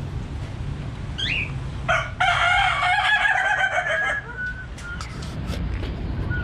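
A rooster crowing once, a call of about two seconds starting about two seconds in. A short rising bird chirp comes just before it, and a few brief high bird notes follow.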